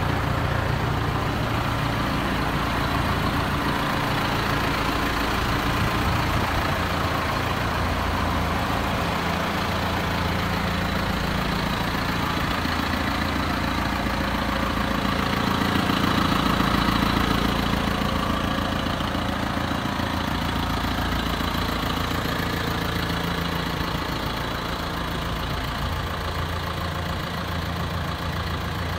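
John Deere 6330 tractor's diesel engine idling steadily, swelling slightly about halfway through.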